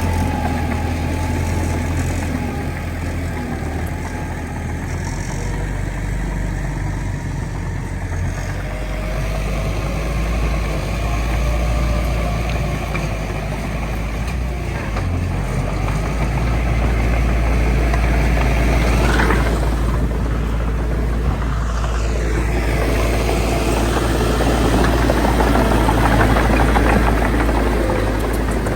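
Heavy diesel engine of a bulldozer running steadily as it works, a low drone with higher tones that shift in pitch. A brief rising whine comes about two-thirds of the way through.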